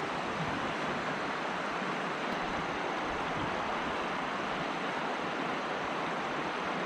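Steady rush of river water running through rapids, an even noise with no distinct events.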